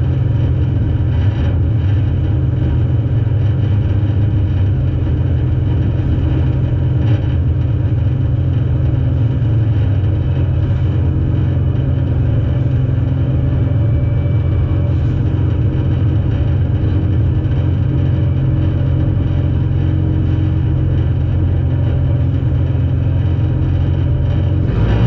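Demolition-derby car's engine idling steadily, heard from inside its stripped cabin.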